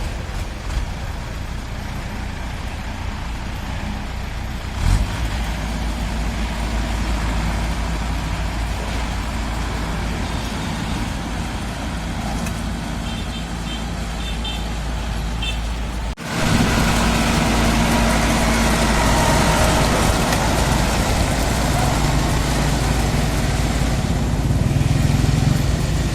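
Heavy diesel engine of farm harvesting machinery running steadily. About sixteen seconds in, the sound breaks off abruptly and resumes louder.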